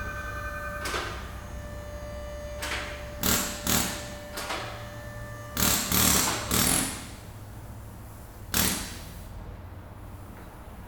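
Workshop noise: a series of short, sharp bursts of tool or machinery noise, several close together about three to seven seconds in and a last one near nine seconds, over a steady low hum.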